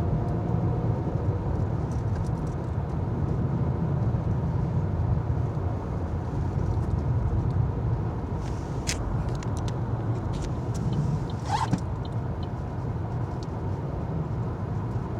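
Car cabin noise while driving on a snowy road: a steady low rumble of engine and tyres, with a few short clicks and creaks near the middle.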